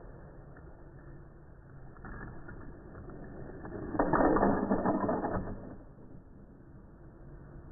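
Die-cast Hot Wheels car running on vintage orange plastic track driven by a battery-powered Super-Charger booster, with a steady low motor hum and a loud clattering rattle that lasts about a second and a half, starting about four seconds in.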